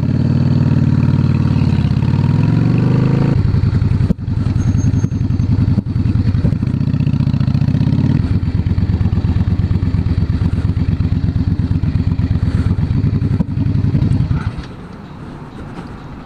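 Motorcycle engine running while riding, its pitch dipping and climbing again in the first few seconds, with brief breaks near four and six seconds like gear changes. It then runs steadily until it drops away sharply about fourteen seconds in.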